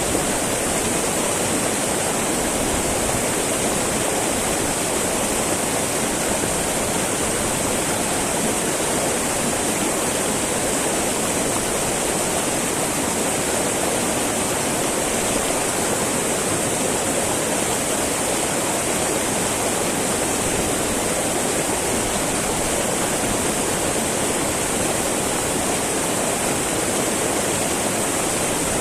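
Small mountain river babbling and rushing over rocks, a steady even flow of water with a bright hiss.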